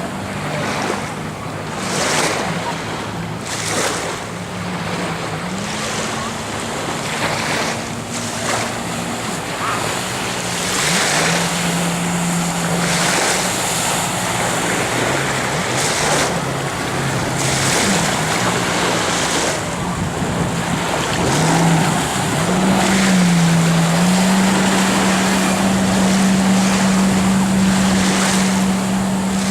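Jet ski engine running, its pitch stepping up and down and then holding steady higher for the last several seconds, over rushing water and gusts of wind on the microphone.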